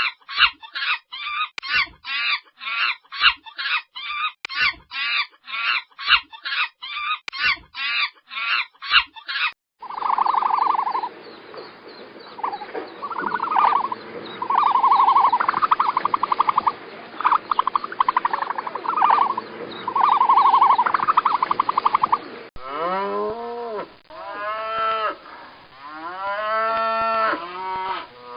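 A run of animal calls. Frog croaks repeat rapidly, about two to three a second, until the clip changes about ten seconds in to repeated whistled calls. About three-quarters of the way through comes cattle mooing: several long calls that rise and fall in pitch.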